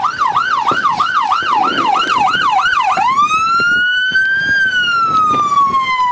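Emergency vehicle's electronic siren sounding loudly: a fast yelp of about three warbles a second switches, about three seconds in, to a slow wail that rises and then falls.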